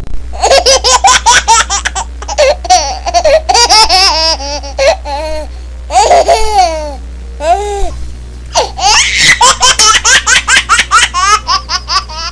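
Hearty, sustained laughter: long runs of rapid, pitched laughing pulses with brief breaks for breath.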